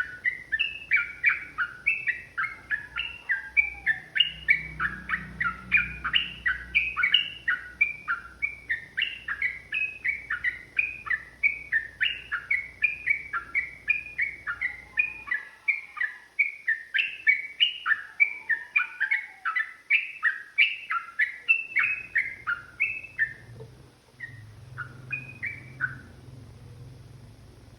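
Yellow-vented bulbul singing a long, rapid run of repeated chirping notes, about three a second, that thins to a few scattered notes about 23 seconds in and stops a few seconds later.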